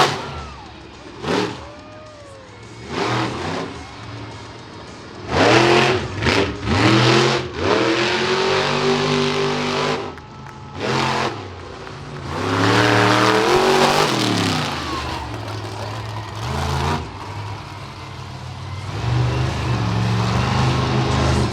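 Monster truck engine revving hard in repeated bursts, its pitch rising and falling with each stab of throttle, with a longer sustained rev about two-thirds of the way through.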